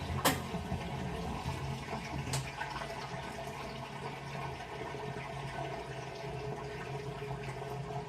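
Washing machine running with water rushing and sloshing in the drum over a steady low hum, with two sharp clicks in the first few seconds.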